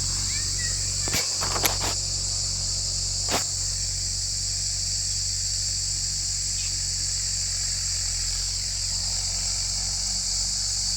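Steady high-pitched insect drone over the low, even running of a Mahindra diesel tractor engine, with a few sharp clicks in the first few seconds.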